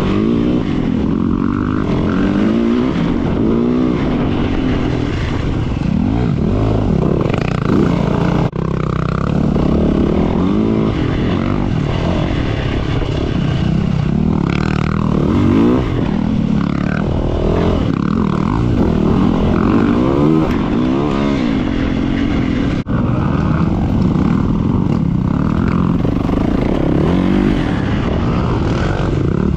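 Four-stroke dirt bike engine under way, the throttle opened and closed over and over so the pitch keeps rising and falling, with two short sudden drops in the sound.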